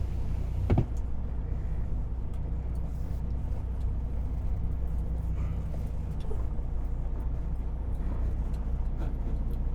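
Semi-truck diesel engine running steadily at low revs, heard from inside the cab, with one short knock about a second in.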